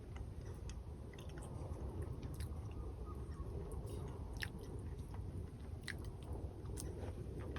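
A person chewing and biting food close to the microphone, with scattered sharp clicks.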